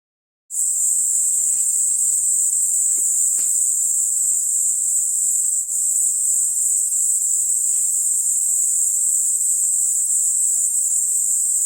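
Autumn insects, crickets among them, singing in a steady, continuous high-pitched chorus that starts abruptly about half a second in, with a few faint ticks.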